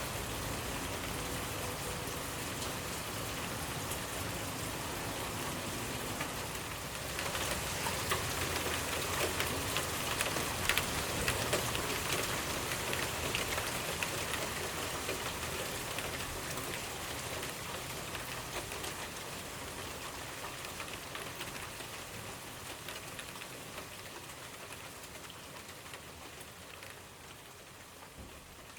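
Steady rain falling, with fine drop patter. It grows louder about seven seconds in, then slowly fades out.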